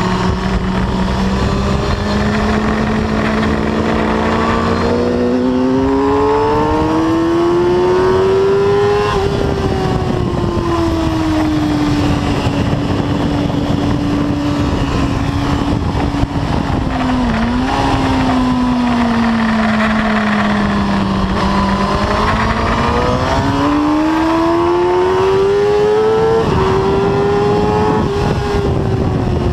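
Suzuki sport motorcycle engine heard from onboard at track speed, its pitch rising under acceleration, easing through a long stretch, dipping briefly midway, then rising again before a sudden drop in pitch near the end. A steady rush of wind runs under it.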